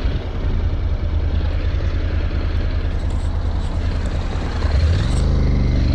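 Motorcycle engine running during a ride, a steady low rumble. About five seconds in it revs up, rising in pitch and getting louder.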